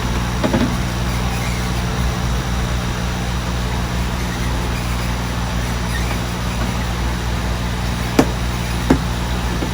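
Steady low machine hum, with a short knock about half a second in and two sharp knocks near the end.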